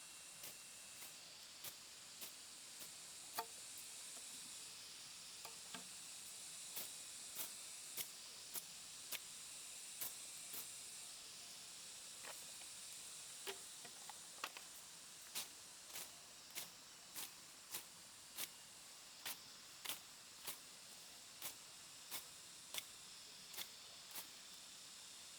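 Faint, sharp knocks: irregular at first, then coming evenly about every half second through the second half, over a steady high hiss.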